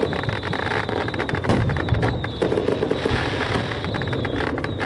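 Aerial fireworks shells bursting, with dense crackling throughout and a couple of louder bangs about a second and a half and two seconds in.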